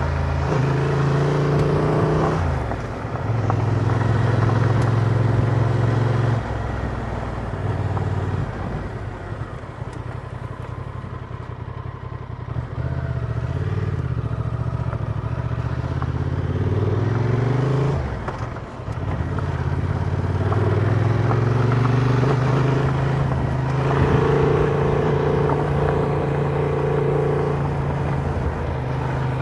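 Honda Transalp motorcycle engine running under way, its revs rising and falling repeatedly as it is ridden through the gears, with brief dips as the throttle is closed about three seconds in and again around eighteen seconds.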